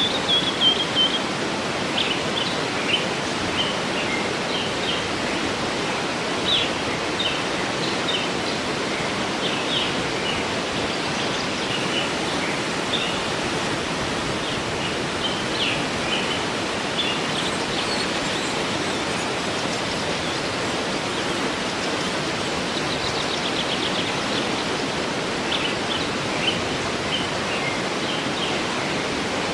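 Waterfall rushing steadily, with birds chirping and trilling through it in short, high calls.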